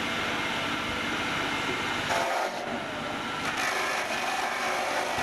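Steady workshop machine noise, which turns higher and harsher about two seconds in.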